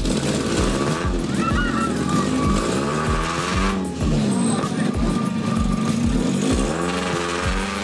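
A lowered rear-drive coupe's engine revving up and down as its rear tyres spin and smoke in a burnout, with tyre squeal. Music with a steady beat about twice a second plays over it.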